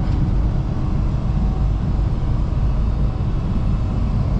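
Steady low rumble of a semi-truck under way, engine and road noise.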